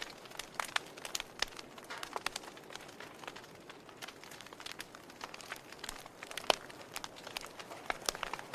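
Wood fire of burning logs crackling: irregular sharp pops and snaps over a soft steady hiss, with a louder pop about six and a half seconds in.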